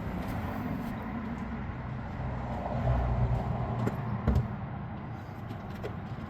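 Chevrolet Silverado V8 engine idling steadily after a fresh oil change, with a short knock about four seconds in.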